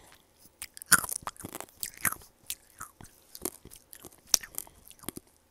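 Close-up biting and chewing of tanghulu, fruit coated in hardened sugar candy, with irregular sharp crunches of the candy shell breaking.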